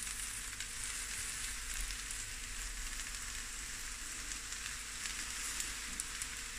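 Prawns and rice sizzling in a hot pan on the stove: a steady frying hiss with a few faint crackles.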